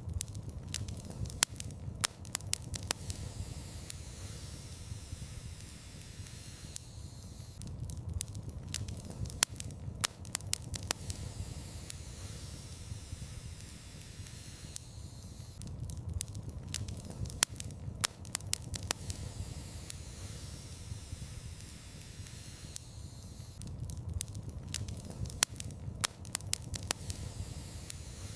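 Wood fire burning in a fireplace: a steady soft hiss with sharp crackles and pops. The pops come in bunches that repeat about every eight seconds.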